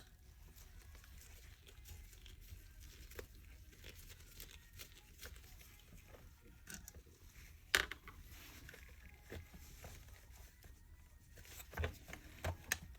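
Quiet handling of plastic vacuum-cleaner parts and tools: scattered light clicks and taps, with one sharper click about eight seconds in and a few more near the end.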